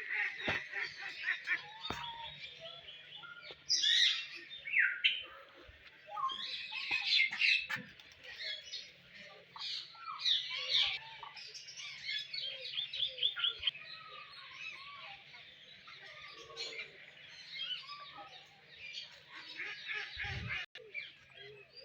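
Many birds chirping and calling at once: a dense, overlapping chorus of quick high chirps with some lower calls mixed in. A single low thump near the end.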